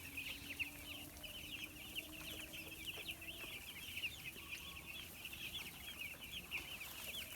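A flock of 11-day-old broiler chicks peeping continuously, many short high chirps overlapping.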